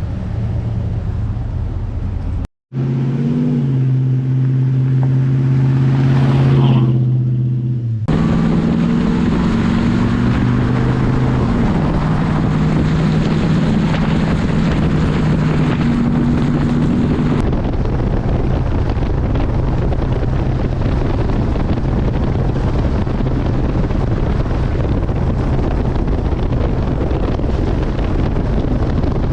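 A truck driving: steady engine drone and road rumble, with wind noise on the microphone. The engine's pitch shifts in steps, and the sound breaks at a couple of cuts between clips.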